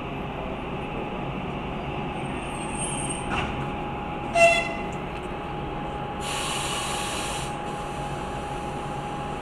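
Passenger train standing during a locomotive change, with a low steady rumble. About four and a half seconds in comes a brief loud hit with a ringing tone, then about a second and a half later a burst of air hissing. These are the sounds of the new locomotive coupling on and its air brake line being connected.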